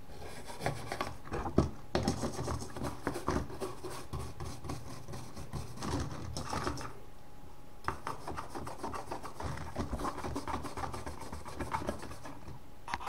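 Quick repeated scraping and rubbing strokes on a metal gas mask tin, as it is scrubbed or abraded during cleaning. The strokes come in runs with sharp clicks and short pauses between them.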